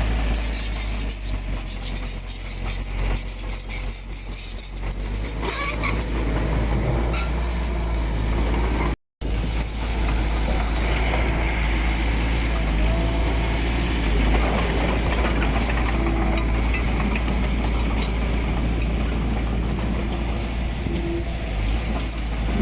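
Diesel engine of heavy earthmoving machinery running steadily with a deep rumble, with scattered clicks and clanks over the first several seconds. The sound cuts out completely for a split second about nine seconds in.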